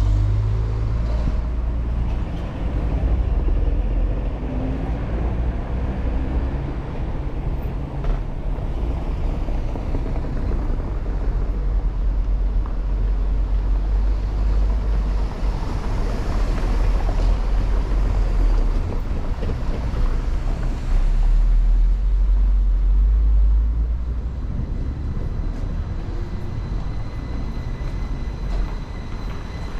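Town street traffic: vehicle engines passing with a deep rumble that swells and eases.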